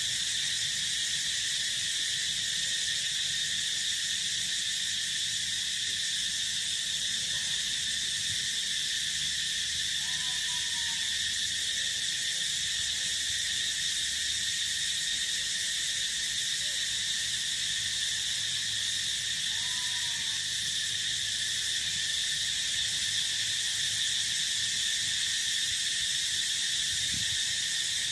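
Steady chorus of crickets and other insects, many shrill trills held without a break, with a short falling call about ten seconds in and again about twenty seconds in.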